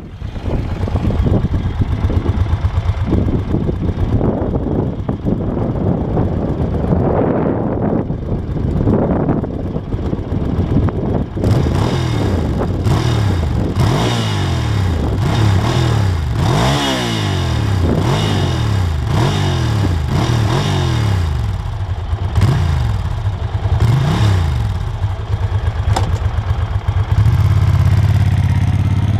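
Ducati 750 Sport's air-cooled V-twin engine heard from the bike while riding, repeatedly revving up and dropping back through gear changes, over a haze of road and wind noise.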